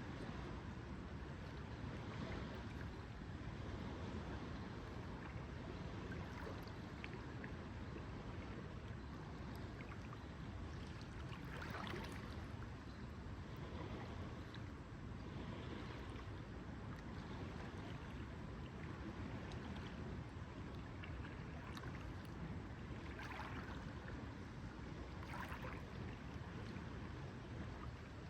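Lake water lapping gently at the shore over a steady low rumble of wind, with a few brief louder laps or splashes about twelve seconds in and again near the end.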